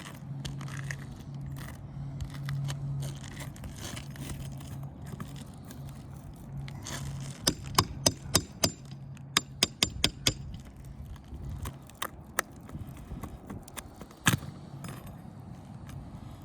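Sharp metal taps and knocks of hand tools working on asphalt roof shingles and nails: a quick run of several strikes a second in the middle, then a few single knocks. A low hum sits underneath.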